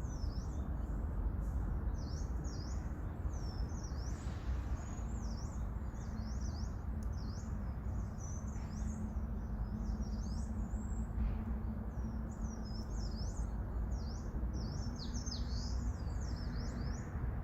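Small birds chirping repeatedly, many short high calls sweeping up and down, over a steady low outdoor rumble.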